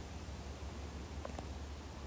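Steady low hum and hiss of background noise, with one faint short click a little past halfway through.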